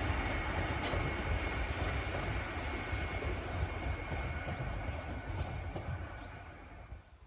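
Train running on the line, a steady rumble with a thin high whine, fading away over the last two seconds. A brief high squeak about a second in.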